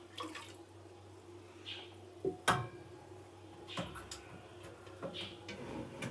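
Things being handled in a small, echoing room, likely during bathroom cleaning: scattered light knocks and rustles, with a sharp click about two and a half seconds in, over a faint steady hum.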